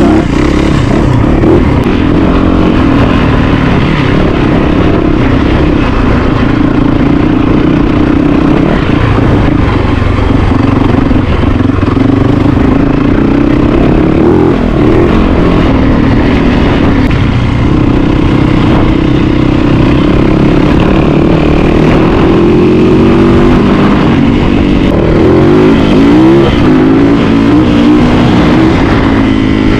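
Yamaha YZ450FX dirt bike's single-cylinder four-stroke engine running hard while being ridden, its pitch rising and falling as the throttle is opened and closed. The revs swing up and down more often near the end.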